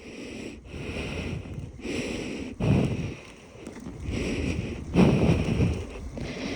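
Wind buffeting and rustling against a phone microphone held inside a riding helmet, coming in irregular swells about once a second.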